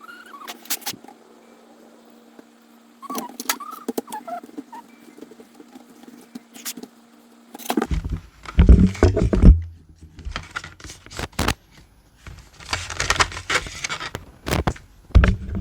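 Clicks, knocks and light plastic rattles of a laptop being taken apart by hand, with a few short squeaks. About halfway through, the handling knocks and rustles get louder.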